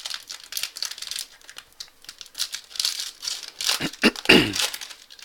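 Crinkling and rustling of a trading-card pack wrapper being handled and torn open, as a run of irregular crackles with a louder tearing stretch about four seconds in.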